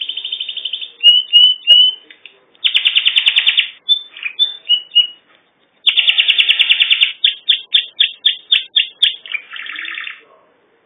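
Domestic canary singing a loud song of rapid trills, slurred rising notes and a run of separate chirps, in several phrases with short pauses, stopping a little after ten seconds.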